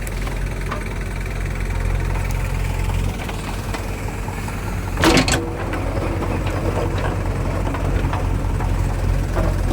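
Diesel engines of a backhoe loader and tractor running steadily at work, with one short sharp clank about five seconds in, the loudest moment.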